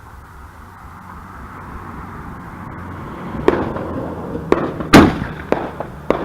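Consumer fireworks going off: a hiss that grows louder for about three seconds, then a string of sharp bangs about half a second to a second apart. The loudest bang comes about five seconds in.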